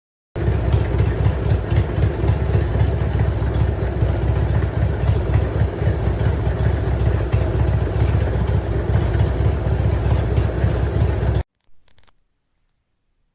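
Motorcycle engine running steadily with a rapid, even pulse, starting abruptly and cutting off suddenly after about eleven seconds.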